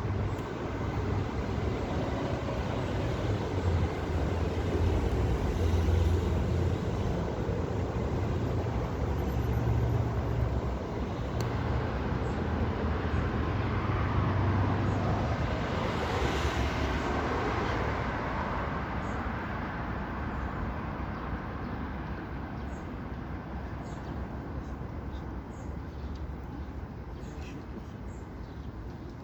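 Steady rumble of road traffic heard outdoors, swelling once about halfway through and slowly fading toward the end, with faint short high chirps in the last part.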